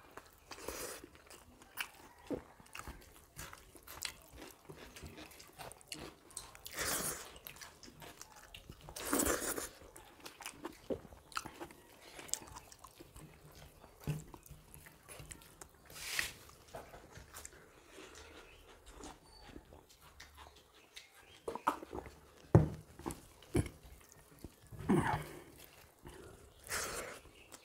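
Close-up eating sounds of two people chewing and smacking on rice and soya chaap curry, in irregular short bursts with a few louder wet ones.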